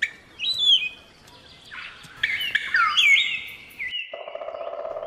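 Palm cockatoo giving a series of short whistled calls that sweep up and down in pitch. About four seconds in it cuts off and a steady buzzing drone with bird chirps over it begins.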